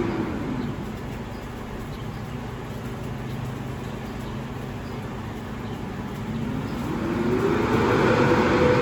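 Garbage truck's diesel engine easing down to a lower, quieter run in the first second, then revving up again over the last two seconds.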